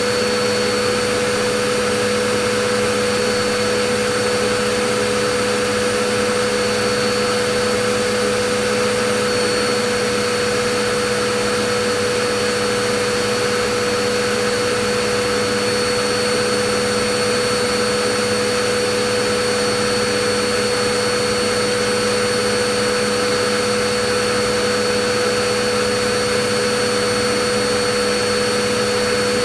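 Vacuum cleaner running steadily: a constant motor whine over an even rush of air, with no change in pitch or level.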